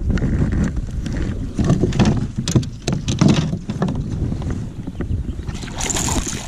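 Wind buffeting the microphone on a kayak, a heavy low rumble, with a run of sharp clicks and knocks from about one and a half to three and a half seconds in, and a brief hiss near the end.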